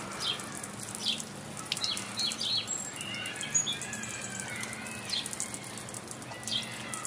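Small birds chirping in short, repeated calls, with some longer gliding notes in the middle, over the steady hiss of an oscillating lawn sprinkler's spray.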